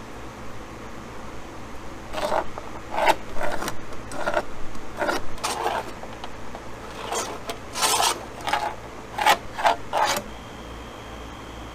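A series of short rasping scrapes, about a dozen irregular strokes, starting about two seconds in and stopping a couple of seconds before the end.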